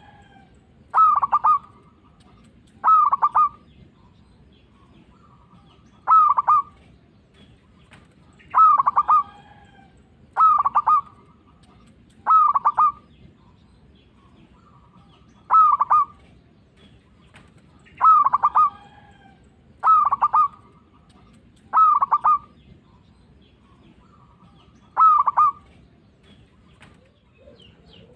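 Zebra dove (perkutut) singing. About eleven short cooing phrases of rapid pulsed notes, one roughly every two seconds.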